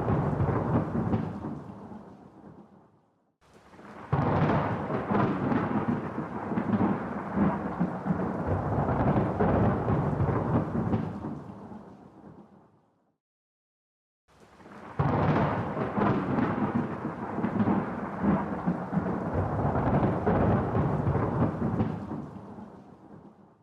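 Rolling thunder: long, deep rumbles that swell and then fade away to silence. The first rumble is dying out at the start, a second rolls in about four seconds in, and a third about fifteen seconds in.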